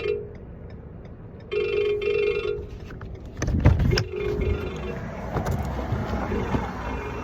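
An electronic warning chime sounds in short double pulses, repeating about every two seconds and fading later on. A heavy thump comes about three and a half seconds in, followed by rustling and handling noise.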